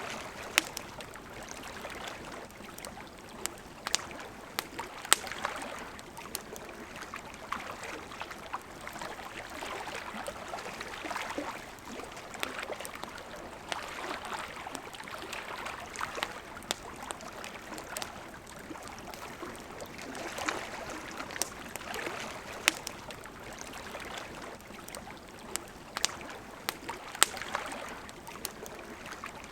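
Campfire crackling, with sharp pops at irregular intervals, over the steady running water of a river.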